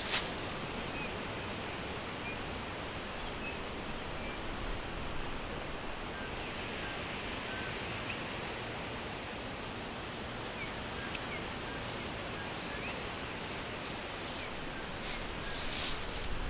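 Forest ambience: faint, scattered short bird chirps over a steady rushing hiss, with a few brief rustles near the end.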